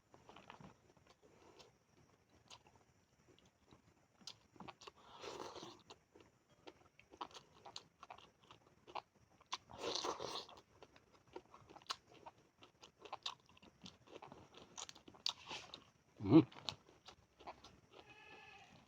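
Close-up mouth sounds of someone eating tamban sardines: irregular crunching and chewing, with one louder thump near the end.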